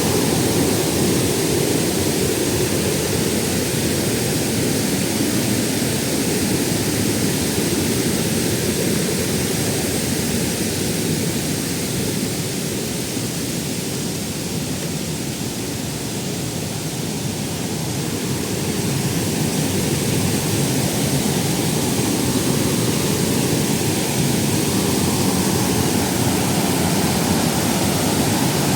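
Waterfall pouring steadily, a dense even rush of falling water, dipping slightly in loudness about halfway through.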